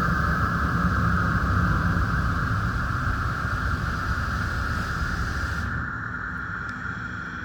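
Christ Varius automatic car wash running, heard from inside the car: a steady hiss of spraying water over a low machine rumble. The higher part of the hiss cuts off about six seconds in.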